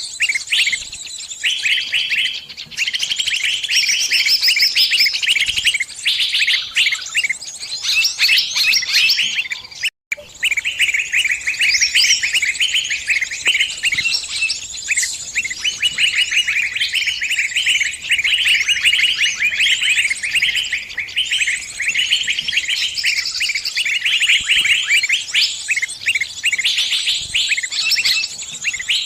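Small songbird giving frantic distress calls, the cries of a bird caught or pinched: a dense, unbroken stream of rapid high chirps that breaks off for a moment about ten seconds in.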